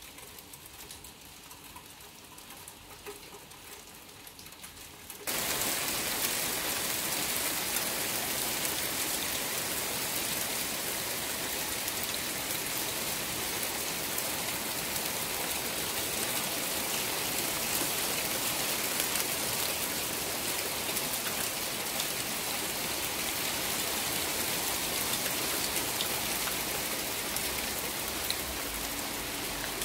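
Steady rain falling on a garden patio and lawn. It is faint at first, heard through the rain-streaked window glass, then suddenly much louder about five seconds in, once heard through the open doorway, and stays an even hiss.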